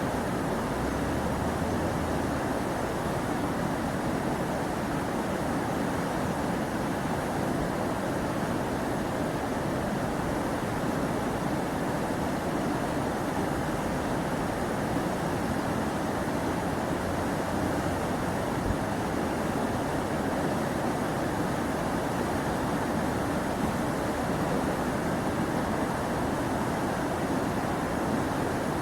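Steady rushing of river water over shallow rapids, an even noisy wash with no breaks.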